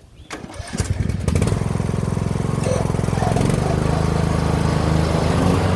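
Craftsman lawn tractor's engine starting and running, with a rapid steady firing beat that builds up over the first second.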